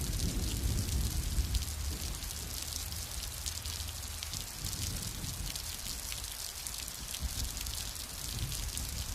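Steady rain falling, with many separate drops ticking through the hiss. A low rumble of distant thunder dies away over the first two seconds.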